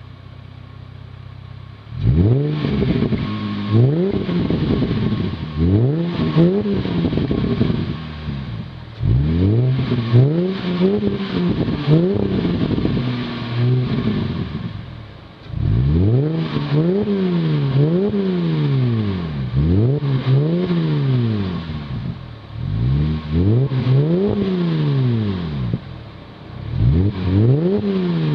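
Holden VZ SV6's V6 through an aftermarket X-Force exhaust with extractors, 200-cell cats and a twin 2.25-inch cat-back, idling and then revved repeatedly. After about two seconds of idle come a string of quick throttle blips, then longer revs that rise and fall about every two seconds.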